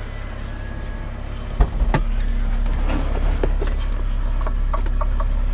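Honda A20 four-cylinder engine idling steadily with a low rumble, with two sharp knocks about a second and a half in.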